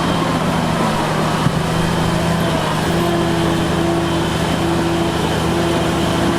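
Heavy diesel engine of earthmoving machinery running steadily. From about halfway, a steady tone comes and goes in long stretches.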